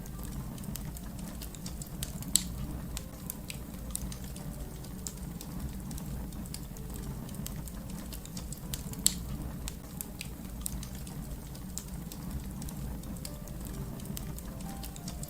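Wood fire crackling: a steady low rumble under scattered small snaps, with two sharp, louder pops about two and a half seconds and nine seconds in.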